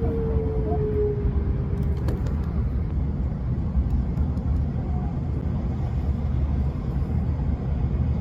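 Steady low rumble of a moving train, heard from inside the carriage, with a faint falling whine in the first second or so.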